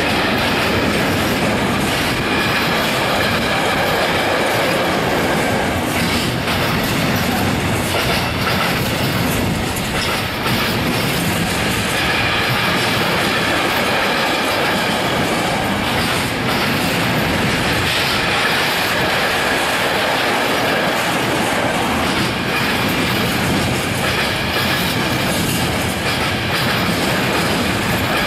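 Loaded container wagons of an intermodal freight train rolling past: a loud, steady noise of steel wheels on rails, with occasional knocks over rail joints and faint high ringing tones from the wheels.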